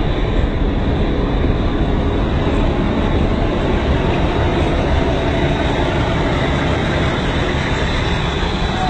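Diesel locomotive and its train passing close by: a loud, steady mix of engine noise and wheels running on the rails.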